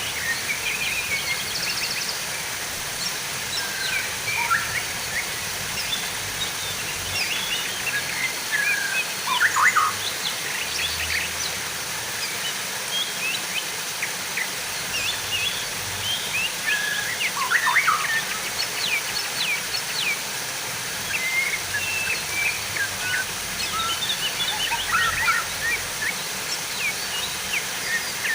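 Steady rushing, trickling water with many small birds chirping and twittering over it in short, quick calls. The loudest calls are two clusters of falling notes, about a third and about two-thirds of the way through.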